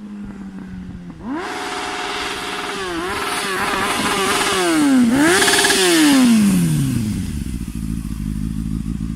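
Honda CBF600N inline-four engine through a replica Akrapovic slip-on exhaust: the note rises sharply about a second in, holds high with a few quick dips and recoveries, then falls away to a low rumble from about seven seconds.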